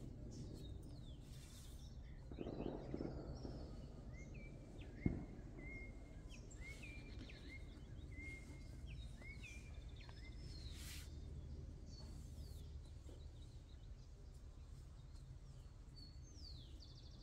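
Faint birdsong: one bird repeats a short rising chirp over and over, about twice a second, for several seconds, over a steady low background hum. A single sharp knock comes about five seconds in.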